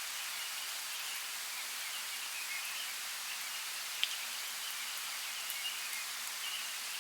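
Steady light rain falling in a forest, an even hiss with faint bird chirps scattered through it and one sharp drop about four seconds in.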